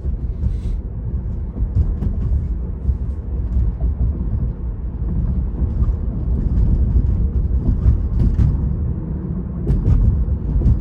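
Road and tyre noise in the cabin of a Tesla electric car on the move: a steady low rumble with no engine sound.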